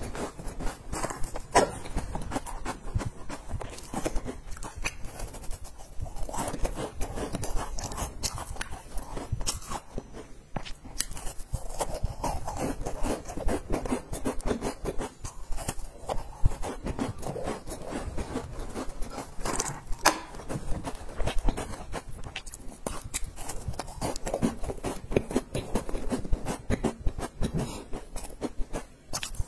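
Crunchy cookie being chewed close to a clip-on microphone: a dense run of quick crackling crunches with no pause.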